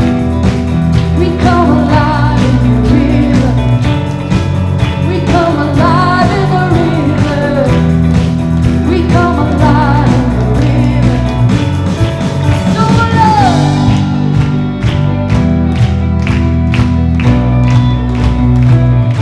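Live church worship band playing, with a singer's voice over steady chords. About two-thirds of the way in the singing stops and the band carries on with a steady drum beat.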